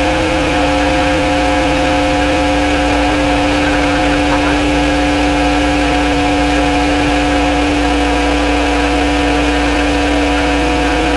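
A motor or small engine running steadily at a constant speed, giving an even hum that holds the same pitch throughout.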